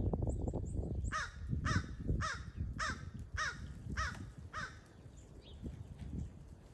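A bird giving a quick, even series of seven harsh calls, about two a second, which stops a little past halfway; faint high chips from a small bird come just before.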